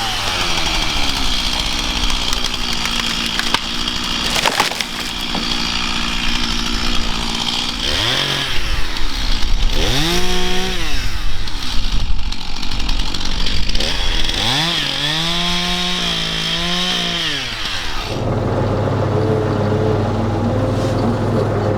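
Stihl two-stroke chainsaw running at full throttle through wood, with the engine revved up and dropped back several times between cuts. About eighteen seconds in it gives way to a steady, lower engine drone.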